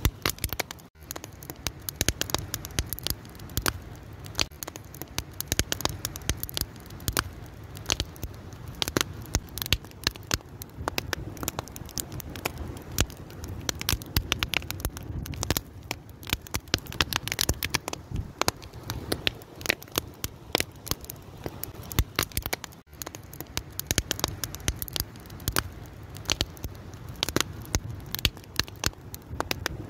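Fire crackling steadily, with many sharp pops and snaps over a low rumble.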